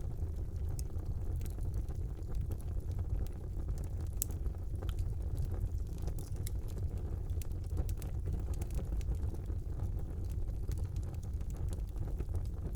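Fire burning in a brick fireplace: a steady low rumble with scattered crackles and pops, one sharper pop about four seconds in.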